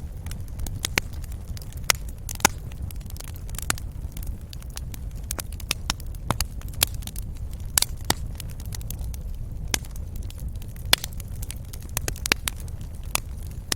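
Fire crackling in a fireplace: irregular sharp pops and snaps, several each second, over a steady low rumble.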